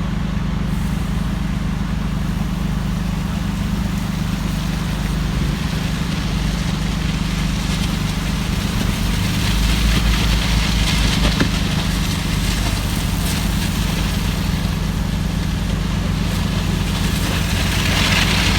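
A large vehicle engine idling steadily with a low, even hum, overlaid by a rushing hiss that swells twice, around the middle and near the end.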